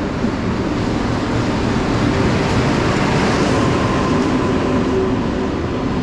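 Loud, steady rumble of a train running through a railway station, with a faint thin squeal about halfway through.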